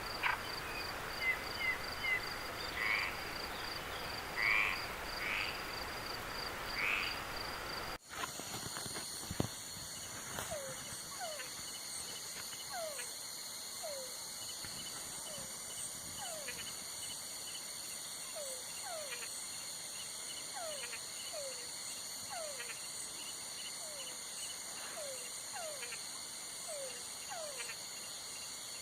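Night chorus of crickets and other insects. For the first eight seconds a pulsing high trill sits over a soft hiss, with a few short chirps. After a sudden cut, steady high insect trills continue, with short falling calls repeating about once a second.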